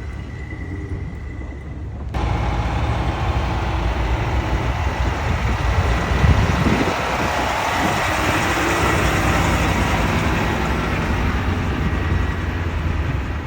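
Heavy truck engine idling steadily, with a broad rushing hiss that comes in suddenly about two seconds in.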